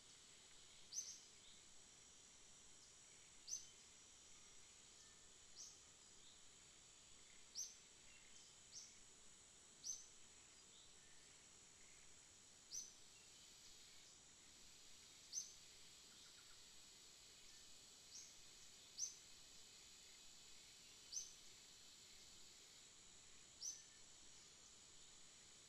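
Near silence, broken by a bird's short, high, slightly falling chirp a dozen or so times, every one to three seconds, over a faint steady high-pitched whine.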